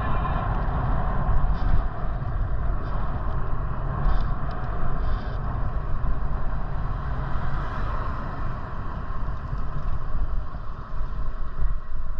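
Steady wind rush and rumble on the microphone while riding along a road, with road noise underneath.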